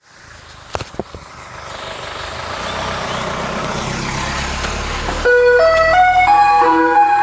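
A rushing noise with a low rumble that grows steadily louder, with a few sharp clicks about a second in. About five seconds in it cuts to a chiming tune of single bright notes, like an ice cream van's jingle.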